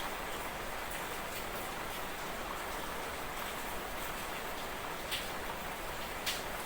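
Light rain falling steadily, a continuous hiss of drizzle with two sharper drops striking close by about five and six seconds in.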